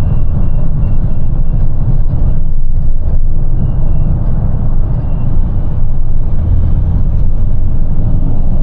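Small box truck's engine and road noise from inside the cab: a loud, steady low rumble.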